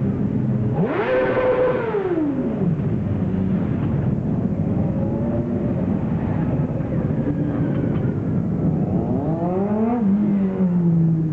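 Several motorcycle engines running as bikes ride past; one revs up sharply about a second in and then falls away, and another revs up near the end.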